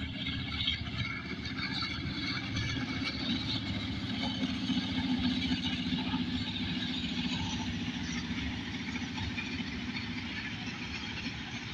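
Diesel-hauled passenger train running past at a distance: a steady rumble of the locomotive and coaches, a little louder about five seconds in and easing off towards the end.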